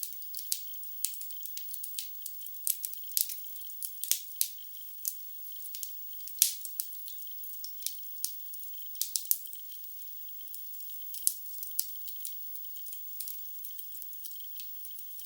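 Wood logs burning in a fireplace, crackling with a steady run of irregular sharp pops and clicks; a couple of louder pops about four and six and a half seconds in.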